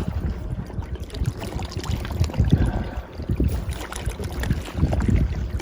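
Wind buffeting the microphone outdoors: an irregular low rumble that rises and falls in gusts.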